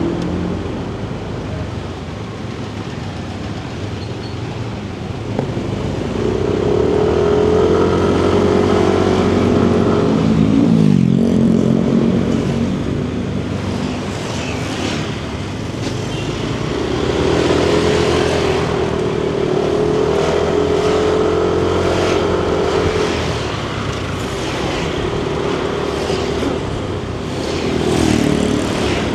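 Yamaha Nmax 155 scooter's single-cylinder engine heard from the saddle, twice pulling up to a steady cruise and easing off again. Its pitch drops about eleven seconds in and again near the end, over steady wind and road noise.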